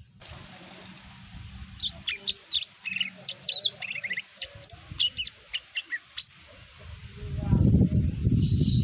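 Green leafbird (cucak ijo mini) singing a rapid run of sharp, swooping whistles and chirps. About seven seconds in, a loud low rustling noise starts and drowns out the song.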